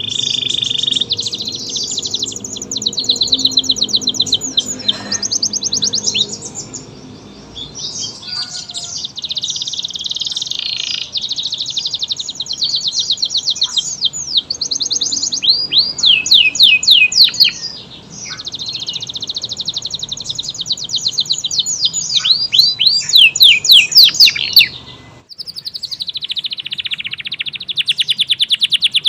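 Domestic canary singing a long, nearly unbroken song of rapid high trills and rolls. The song cuts off abruptly about 25 seconds in, then starts again with more trills.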